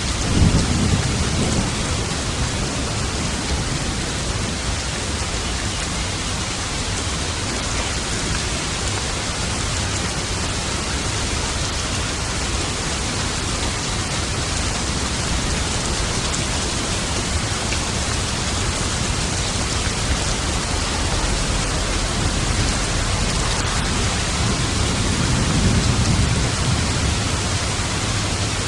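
Steady heavy rain with thunder: a low rumble swells just after the start and a second, longer roll comes about three-quarters of the way through.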